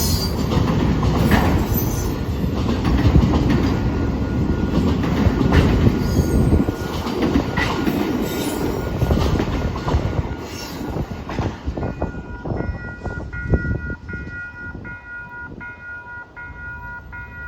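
A train passes over the grade crossing with loud wheel rumble, clatter and some wheel squeal, fading out after about eleven seconds. As it clears, the crossing's warning bell rings on, a repeating ringing strike a little under twice a second.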